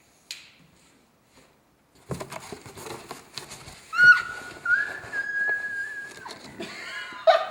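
A whistle tone slides up in pitch about four seconds in, then holds one steady note for about two seconds, over rustling and clicks.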